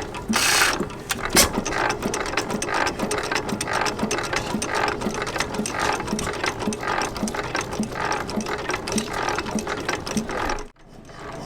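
Armstrong 6 hp cam-wobbler hit-and-miss engine running, its wobble cam and valve gear clicking in an even rhythm of about two to three clicks a second. A louder burst of noise comes near the start, with a sharp crack just after it. The sound cuts off suddenly near the end.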